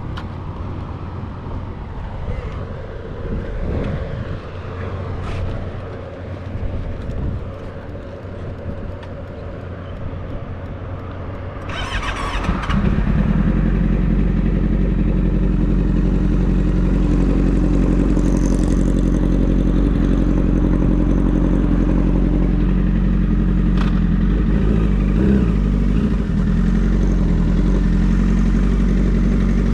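A motorcycle engine starts with a short burst a little under halfway through, then runs loudly and steadily. Before it there is quieter, mixed vehicle noise.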